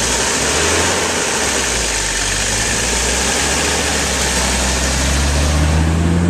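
1985 Mercedes diesel engine idling on waste French fry oil, freshly started and still cold. Its low note grows stronger about five seconds in.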